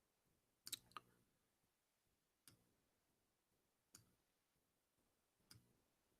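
Faint clicks of a computer mouse: a quick pair near the start, then three single clicks about a second and a half apart.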